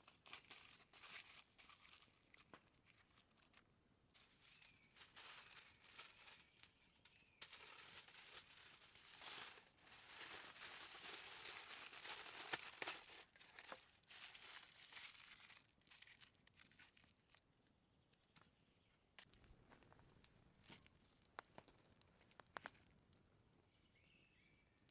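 Faint rustling, crinkling and scraping from handling food and materials during stuffed-mushroom preparation, with a few sharp clicks in the later part.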